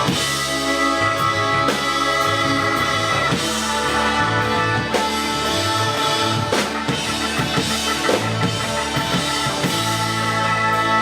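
Live rock band playing an instrumental passage with no vocals: a drum kit keeping a steady beat under sustained, loud band sound.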